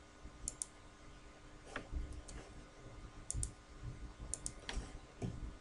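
Faint clicking: a few short sharp clicks, several in quick pairs, among soft low knocks.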